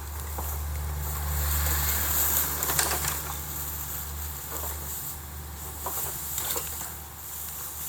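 Bamboo bonfire burning: scattered crackles and sharp pops over a steady low rumble, busiest about two to three seconds in.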